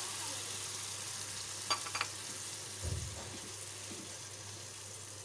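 Ground tomato paste and onions sizzling in a nonstick frying pan as they are stirred with a silicone spatula. Two light clicks come about two seconds in, and a dull low thump follows about a second later.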